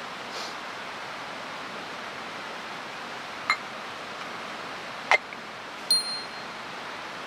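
Steady rushing of a mountain stream, with three sharp metal clinks, the last one ringing briefly.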